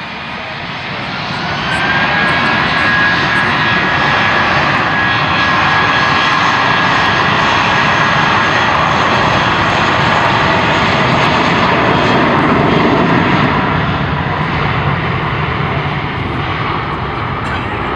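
Twin IAE V2500 turbofan engines of an Airbus A320-232 airliner passing close by. The noise builds over the first two seconds with a high whine on top, stays loud, then slowly fades after about thirteen seconds.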